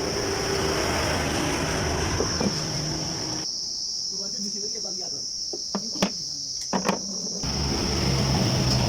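Steady high-pitched chirring of insects, crickets or cicadas, over background noise, with a few sharp clicks about six to seven seconds in.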